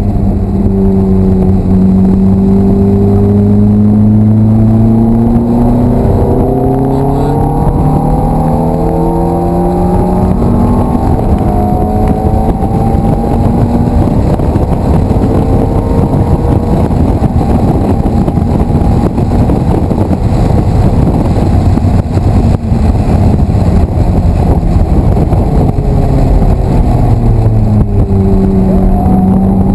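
Ferrari F430's V8 engine heard from inside the cabin as the car runs on track. The engine note climbs slowly for the first dozen seconds, then gives way to a dense rushing noise with the engine less distinct, and a steadier engine note returns near the end.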